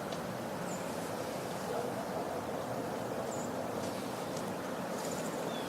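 Steady outdoor background rush with a few faint, short high-pitched chirps scattered through it.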